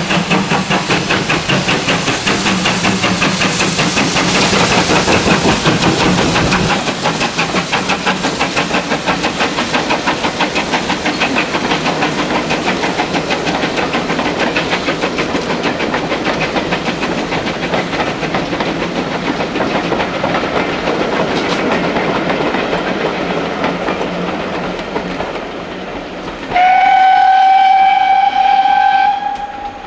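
Steam train passing, its rapid rhythmic beat loudest about five seconds in and then slowly fading as it draws away. Near the end, a steam whistle gives one loud blast of about three seconds.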